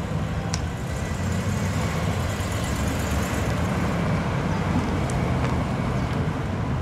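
1949 Cadillac Series 62 convertible's 331 cubic-inch V8 running steadily as the car drives past at low speed, with tyre and road noise.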